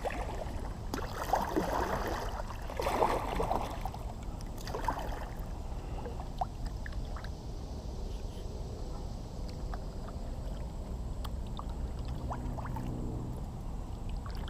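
Kayak paddle strokes in shallow marsh water: three splashing strokes in the first few seconds, then a quieter glide with small water ticks and drips. A faint low hum comes in briefly near the end.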